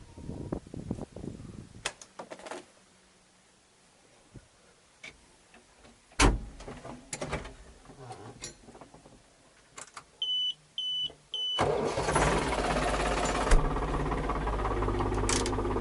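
Scattered clicks and knocks, then three short beeps from the tractor's dashboard, and a farm tractor's diesel engine starts about two-thirds of the way through and idles steadily.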